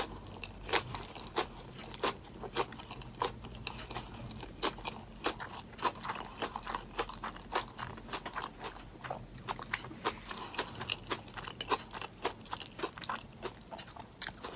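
Close-miked chewing of a mouthful of romaine-lettuce-wrapped meatless burger: crisp, irregular crunches, several a second.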